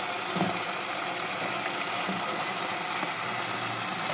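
Cauliflower and potato pieces frying in oil in a pan, a steady sizzle.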